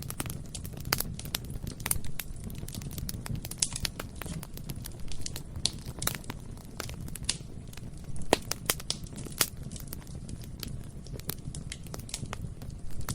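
Bonfire burning: a steady low rumble of flames under dense, irregular crackling, with frequent sharp snaps and pops from the burning wood.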